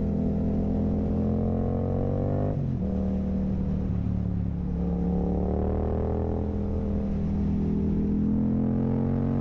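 Yamaha R7's 689 cc parallel-twin engine through an Akrapovic full carbon exhaust, revving up under acceleration, then dropping sharply at an upshift about two and a half seconds in. It then holds fairly steady and climbs again near the end.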